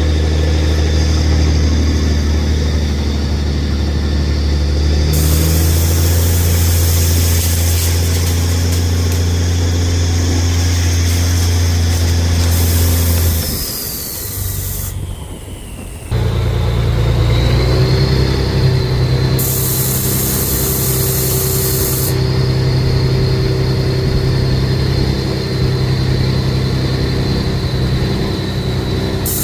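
Deuce-and-a-half military truck engine running steadily. About 14 seconds in the sound drops away briefly, then the engine comes back with a steady high whine over it.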